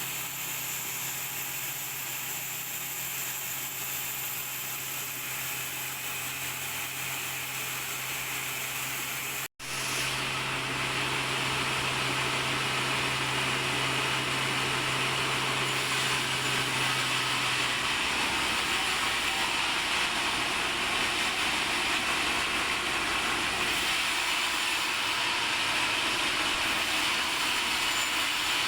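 Sawmill machinery running with a steady mechanical noise and a low hum. The sound breaks off for an instant about a third of the way in, then carries on slightly louder, and the hum fades out past the halfway point.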